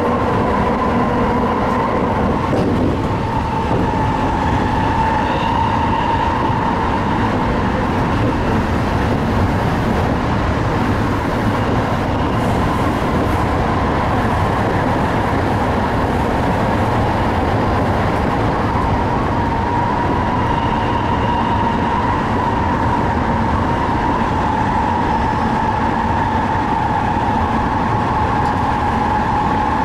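Tsukuba Express TX-2000 series electric train running at speed, a steady rumble of wheels on rail with a steady whine.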